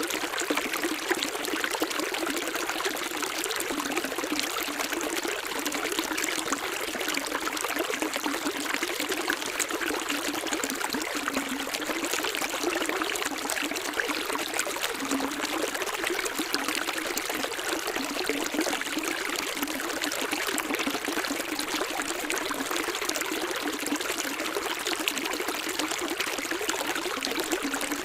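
Running water trickling and splashing steadily, like a small stream, with no bass.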